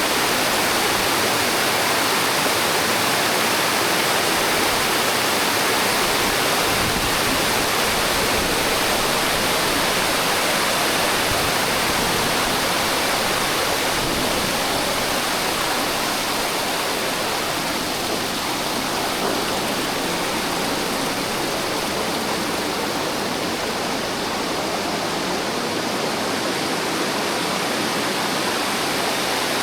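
Waterfall and the fast river at its brink, a steady dense rush of falling and churning water, heard up close.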